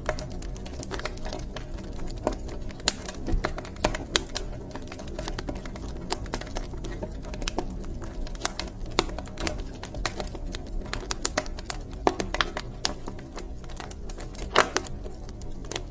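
Wood fire crackling in a fireplace: irregular sharp pops and snaps, several a second, over a steady low rumble and hiss of the burning logs.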